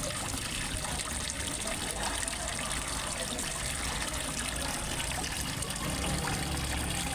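Water trickling and splashing steadily into a fish pond, an even, unbroken flow.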